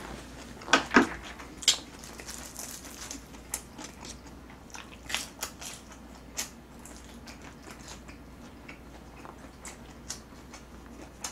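Close-up chewing of a mouthful of food, with short sharp crunches and clicks of the mouth, thickest in the first couple of seconds and then scattered.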